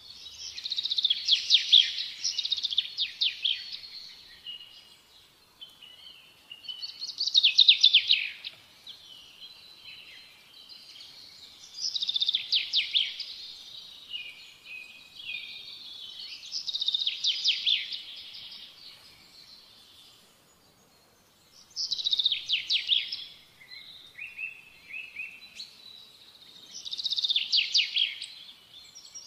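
Bird singing in repeated phrases of rapid, high chirping notes, one phrase about every five seconds, with short pauses between them.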